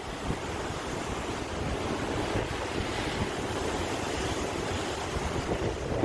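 Sea waves washing on the shore, a steady rush of surf with gusts of wind on the microphone.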